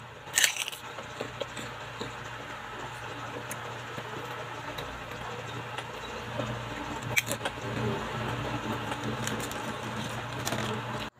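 Crunchy fried chicharon being chewed close to the microphone: steady crackling crunches, with a few sharper snaps.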